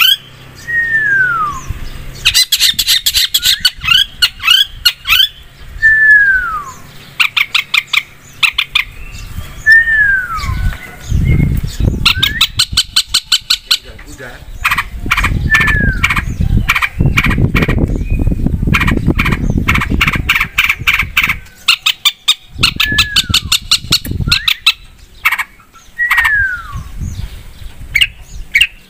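Long-tailed shrike singing loudly: fast harsh chattering and squawks, broken by a clear falling whistle about every three to four seconds. A low rumbling noise comes in for several seconds in the middle.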